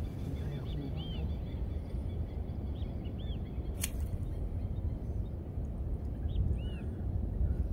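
A bird gives short, arching chirps every few seconds over a steady low rumble, with one sharp click near the middle.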